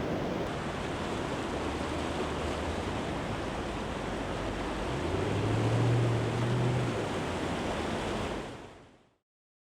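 Rushing floodwater, a steady roar of moving water. A low hum swells and dies away in the middle. The sound fades out near the end.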